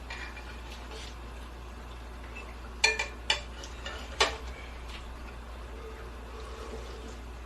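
Utensils clinking against dishes during a meal: three sharp clinks in the middle, spaced a fraction of a second to about a second apart.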